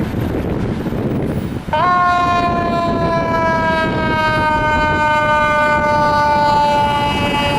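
Fire apparatus air horn sounding one long, continuous blast, starting about two seconds in. Its two-note chord sags slightly in pitch as it holds, over a low rumble of traffic and engine noise.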